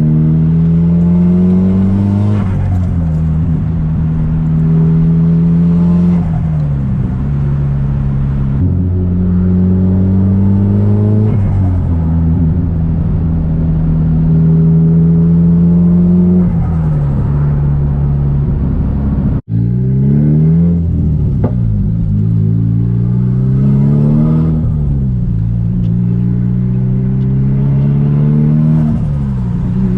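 Straight-piped Nissan Silvia S15's SR20DET turbo four-cylinder engine driving along, its note rising as it pulls and dropping at each gear change or lift-off, over and over. The sound cuts out for an instant about two-thirds of the way through.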